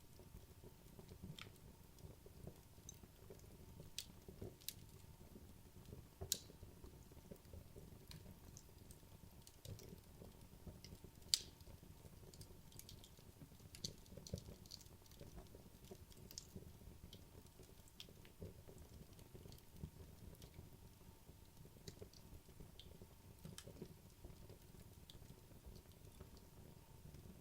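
Wood fire in a fireplace crackling softly: scattered sharp pops and snaps over a low, steady rustle of flames, the loudest pop about eleven seconds in.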